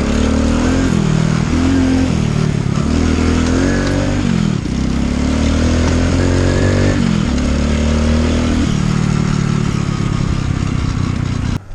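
Motorcycle engine accelerating through the gears: the pitch climbs and drops back at each upshift several times, then settles to a steady cruise. Wind noise runs underneath, and the sound cuts off abruptly near the end.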